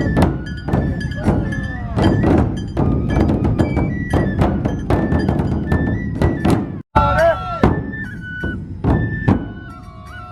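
Festival drum music of a Matsue dō procession: large dō drums struck hard and rapidly under a high bamboo flute melody. The sound cuts out for an instant just before the seven-second mark, and after that the drumming is sparser.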